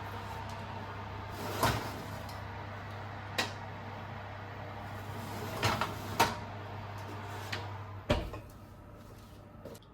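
A kitchen appliance's steady electric hum, with several sharp knocks and clicks over it, cutting off with a clunk about eight seconds in.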